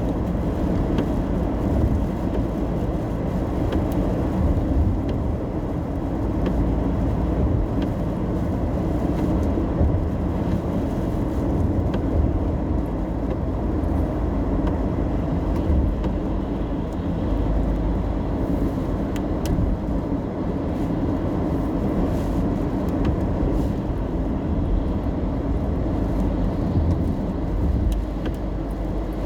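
Steady road and engine rumble heard inside a car driving in the rain, with faint scattered ticks.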